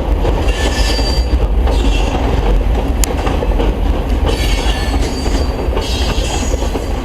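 Train cars rolling across a railroad trestle: a steady low rumble with high squealing from the wheels coming and going, and one sharp click about three seconds in.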